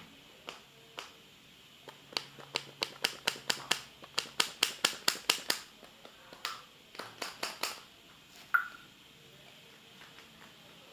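A run of sharp clicking taps, about five a second, for a few seconds. Then come two short groups of taps and one louder click near the end.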